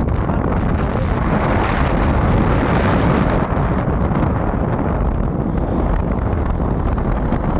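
Steady wind rush buffeting the microphone of a moving bike, with heavy, even low rumble and no distinct engine tone.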